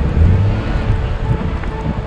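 A plow truck's engine running with a steady low rumble, with background music faintly over it.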